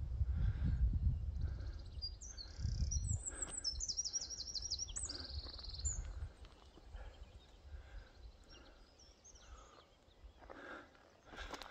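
A songbird singing a quick run of falling notes from about two and a half to six seconds in, over wind rumbling on the microphone for the first few seconds. Steady footsteps go on underneath, growing louder near the end.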